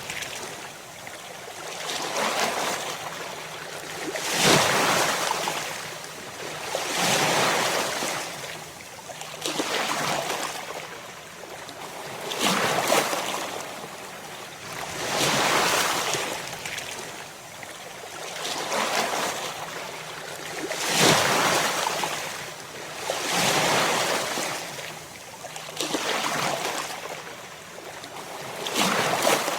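Ocean waves breaking and washing ashore, the surf swelling and fading in repeated surges about every two to three seconds.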